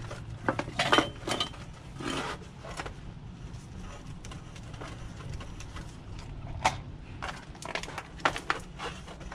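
Scattered light knocks and clicks of PVC pipe and fittings being handled and pushed together, over a steady low hum.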